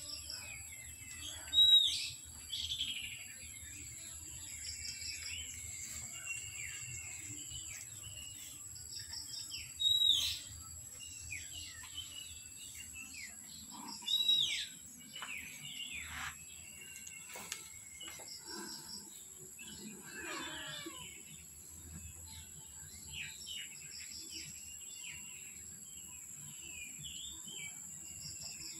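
Small birds chirping, a scatter of short, sharp calls with the loudest about 2, 10 and 14 seconds in, over a thin steady high-pitched tone.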